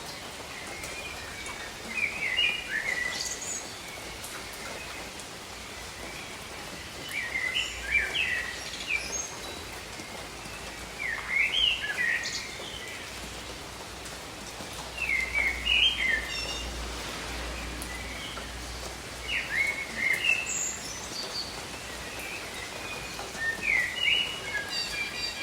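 A songbird repeating a short chirping phrase about every four seconds, six times, over a steady hiss of rain.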